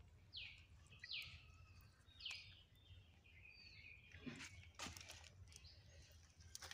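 Faint bird chirps: several short calls, each sweeping down in pitch, in the first half, followed by a few soft clicks or rustles about four to five seconds in.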